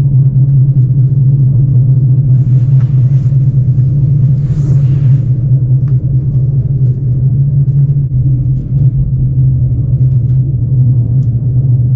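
Passenger train running, heard from inside the carriage: a steady low rumble with an unbroken low drone, and two brief hissing swells around three and five seconds in.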